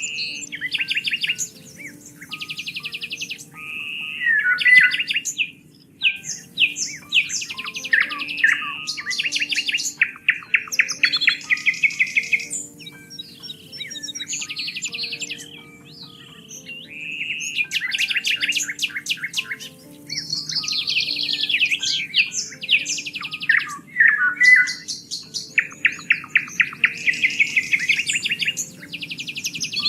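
Songbirds singing: fast trills and chirping phrases follow one another with short gaps, over a faint, steady low background.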